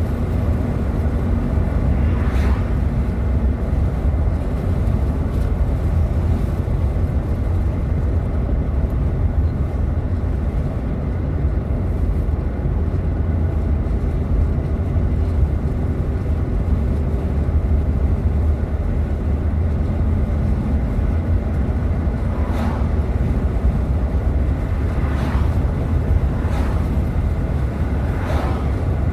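Steady low rumble of a car driving along, with engine and tyre noise heard from inside the cabin. A few brief sharper noises come about two seconds in and several more near the end.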